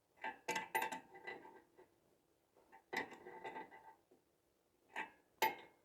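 Metal tools knocking and clinking against the suspension parts, a handful of separate sharp clinks, each with a short metallic ring.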